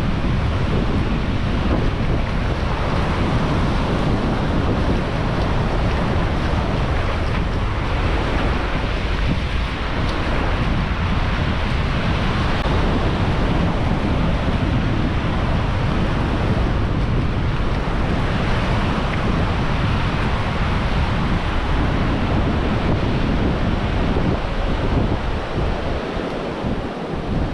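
Ocean surf washing on the beach, with wind buffeting the microphone in a steady low rumble that eases slightly near the end.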